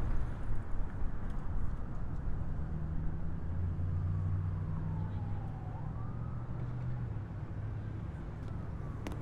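A faint siren wailing, its pitch sliding slowly down, jumping back up and sliding down again, over a steady low rumble and hum. A few sharp clicks come near the end.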